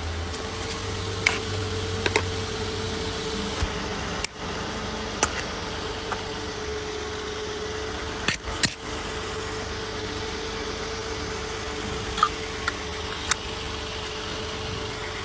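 A motor running steadily: an even hum over a low rumble, with a few sharp clicks and taps scattered through it.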